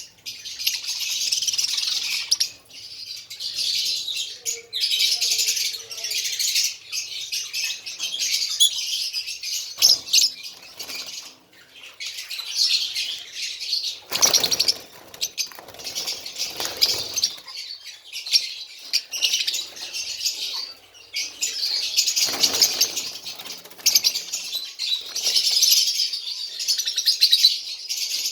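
A group of pet birds chirping continuously in a dense, high-pitched chatter, with wings fluttering noisily a couple of times, around the middle and again later.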